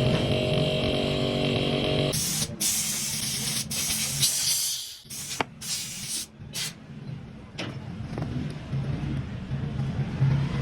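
A motor runs steadily and cuts off about two seconds in, then comes a series of loud hissing bursts of spray or air with short breaks between them, followed by a few light clicks.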